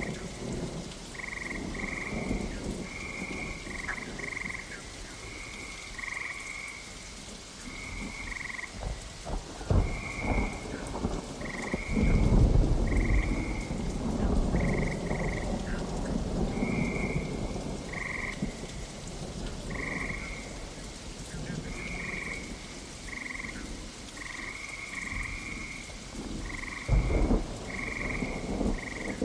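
Steady rain with thunder rumbling, loudest as a long roll from about twelve seconds in and a sharper peal near the end. Over the rain, frogs croak in short, regular calls, about one or two a second.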